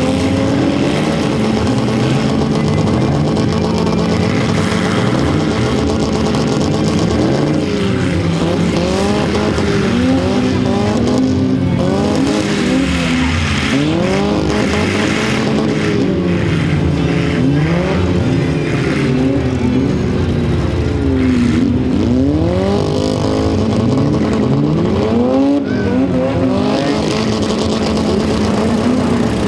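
Several demolition-derby car engines revving up and down at the same time, their pitches rising and falling over one another.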